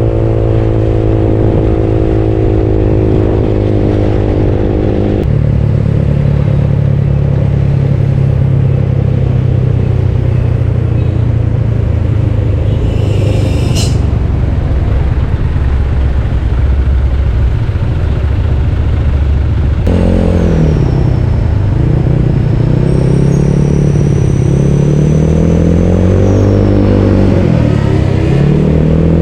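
Bored-up Yamaha Mio scooter's single-cylinder four-stroke engine running under way, heard from the riding motorcycle. The note holds steady for most of the ride and shifts once about five seconds in. In the last third it repeatedly dips and climbs again as the throttle is eased off and reopened.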